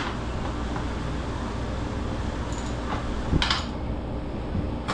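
Steady fan hum of the meat cooler's refrigeration, with a few short metallic clinks of tools and hardware about three seconds in and again just before the end.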